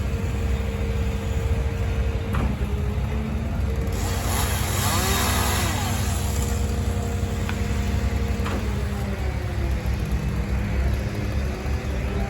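A large engine running steadily at constant speed, with a louder swell of passing-vehicle noise about four to six seconds in and a few light clicks.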